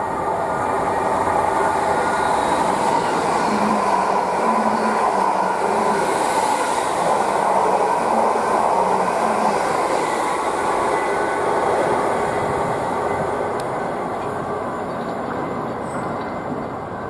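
Greater Anglia Class 745 FLIRT electric multiple unit passing along the platform: a dense rumble and rush of wheels on rail that builds over the first couple of seconds, stays loud for about ten seconds, then fades away, with faint held tones under the noise.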